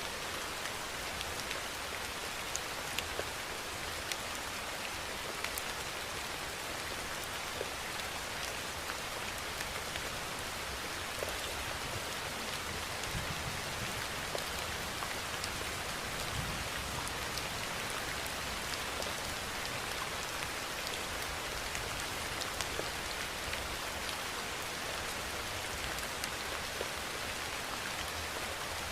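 Steady rainfall: an even hiss of rain with many distinct drops ticking through it.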